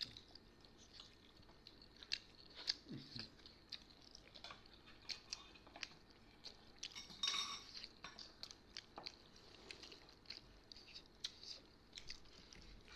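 People chewing buff momos, with soft wet mouth sounds and scattered small clicks and smacks. There is one brief louder noise about seven seconds in.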